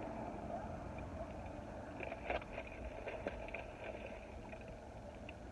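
Faint crunching of pretzel sticks being chewed, a cluster of small clicks and crackles about two to three seconds in, over a steady low background hum.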